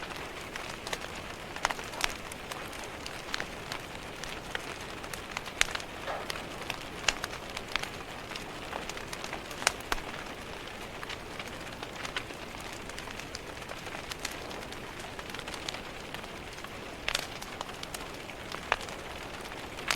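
Steady rain hiss with frequent irregular sharp pops and crackles of a fireplace fire.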